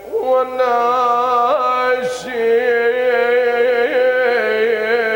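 A man's voice chanting an Iraqi nuʿi mourning lament, drawing out long held notes with wavering ornaments and a brief break about two seconds in.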